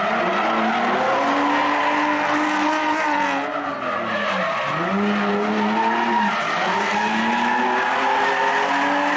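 Drift car engine held at high revs through a slide, with tyre squeal. The revs drop sharply about four and a half seconds in and climb straight back.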